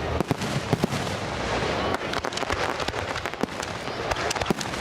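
Fireworks crackling: many rapid sharp pops, thickest about two seconds in and again near the end.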